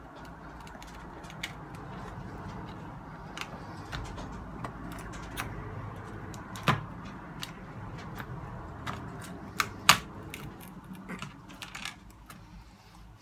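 Scattered clicks and knocks of small plastic and metal parts being handled while a cheap portable radio is taken apart, with a few sharper knocks about halfway through and again after three quarters of the way, over a low steady hum.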